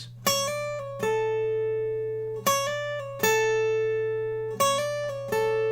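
Guitar playing a short figure three times, two quick notes each time landing without a pause on a held note that rings out.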